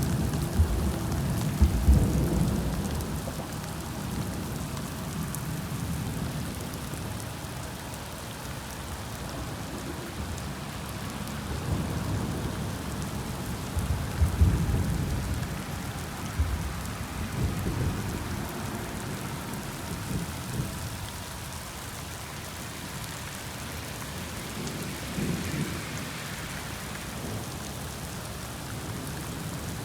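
Heavy rain falling steadily, with low rumbles of thunder swelling and fading several times, loudest near the start and about halfway through.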